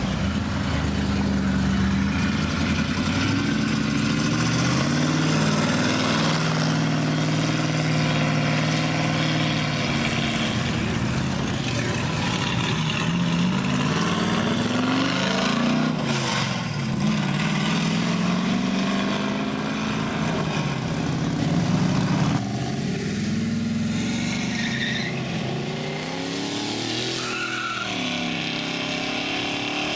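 Classic and show car engines driving past one after another, each revving up as it pulls away, the engine note rising and falling several times.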